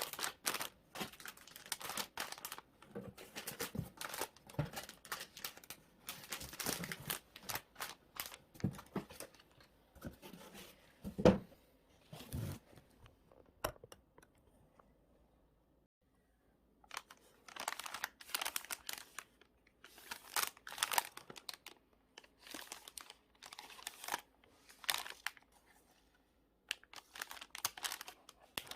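Parcel packing by hand: plastic packaging and wrapping crinkling and rustling in irregular bursts. There is one sharp knock about eleven seconds in and a pause of a few seconds a little past the middle.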